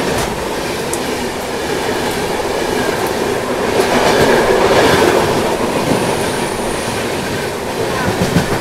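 Indian Railways passenger train (the Amrapali Express) running on the track, heard from on board: a steady loud rumble and rattle of wheels and carriages, swelling a little around the middle.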